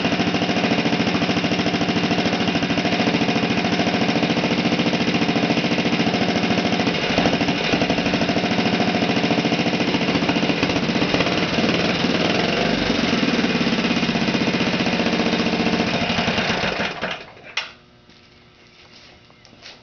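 1948 Briggs & Stratton model WI single-cylinder four-stroke engine running steadily at speed after years of sitting unused, then shut off about 17 seconds in, dying away quickly, with a short click just after.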